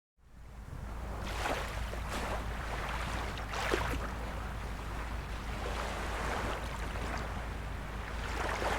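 Gentle sea waves lapping and splashing, several soft splashes a second or two apart over a steady wash, rising out of silence at the start, with a steady low rumble underneath.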